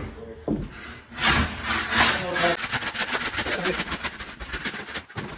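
Saw cutting through wood: a few heavy rasping strokes, then a fast, steady rattle of cutting strokes from about two and a half seconds in.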